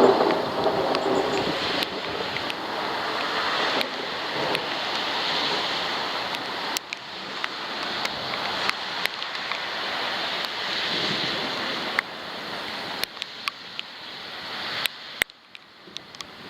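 Thunderstorm wind and rain on a waterproof camera: a steady rush with frequent sharp ticks of drops striking the housing. It eases off sharply near the end.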